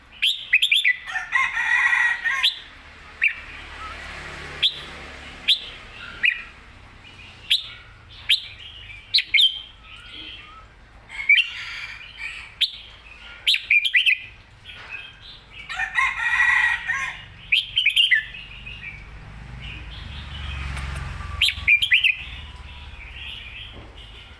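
Red-whiskered bulbul singing: short, sharp whistled notes in quick phrases, repeated throughout. Twice, about a second in and again about sixteen seconds in, there is a longer, denser burst of bird sound.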